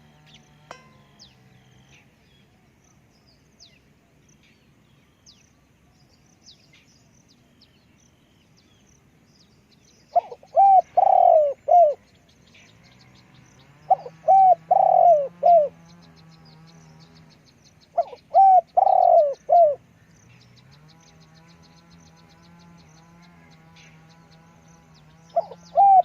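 Spotted dove cooing: after about ten quiet seconds, it gives loud bouts of three or four deep coo notes, repeated about every four seconds. Faint high chirps and a low steady hum run underneath.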